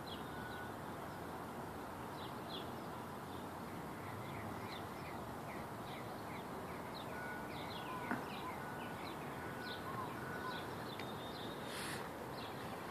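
Small birds chirping, with short, high calls scattered throughout, over a steady background hiss.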